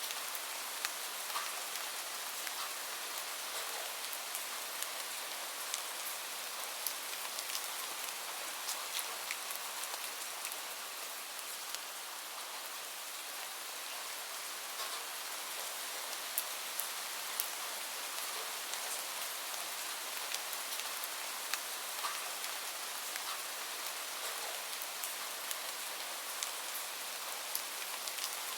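Steady rain falling, an even hiss with many scattered sharp ticks of drops through it.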